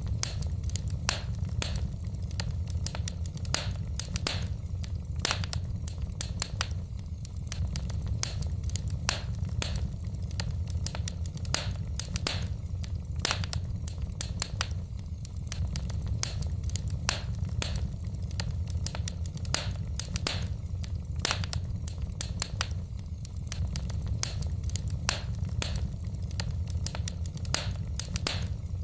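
Wood fire burning in a fireplace, crackling: frequent irregular snaps and pops from the logs over a steady low rumble.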